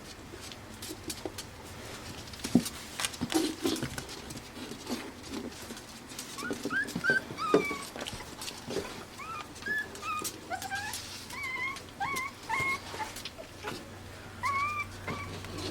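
Five-week-old Pembroke Welsh Corgi puppies whimpering and yipping in short, high squeaks, many in a row from about six seconds in. Scattered clicks and knocks come before and between them.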